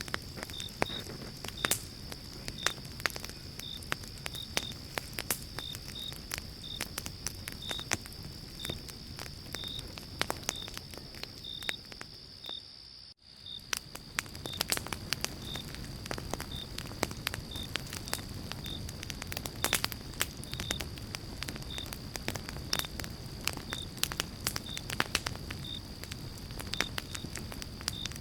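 Pine-log campfire crackling, with frequent sharp pops. Behind it crickets keep up a steady high trill and short chirps about every half second. About halfway through, all the sound drops out for a moment and then returns.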